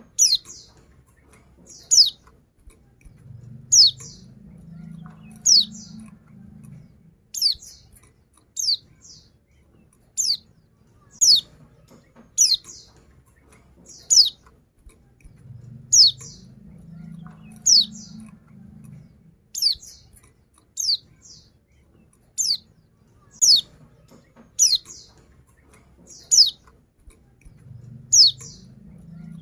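Female white-eye (pleci) calling: short, high, downward-slurred chirps repeated about once a second, some given as quick doubles. This is the call of a female calling to a male.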